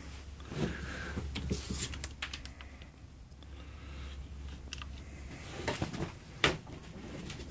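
Scattered small knocks and rustling handling noises, with a low steady hum for the first five seconds and one sharp, loud knock about six and a half seconds in.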